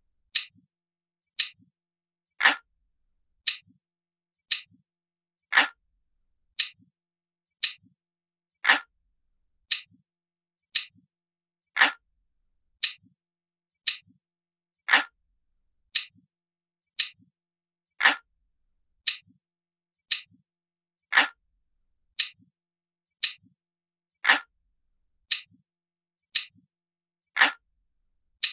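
Crisp, glass-like clock ticking, about one tick a second, with every third tick louder.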